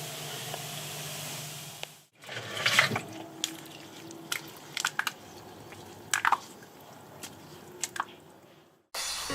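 Cola and Mentos foam fizzing with a steady hiss for about two seconds. After a sudden break, liquid drips and splatters in scattered small pops and clicks.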